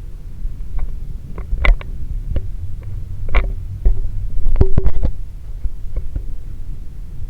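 Alaska Railroad freight cars rolling past with a steady low rumble, broken by irregular metallic clanks and knocks from wheels and couplers, some with a short ring. The loudest cluster of clanks comes a little past the middle.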